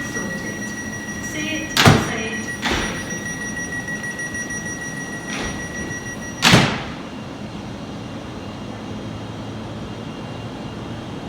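Passenger train's door warning tone sounding steadily while the sliding doors close with several thuds. The last and loudest thud comes about six and a half seconds in, as the tone stops and the doors are shut.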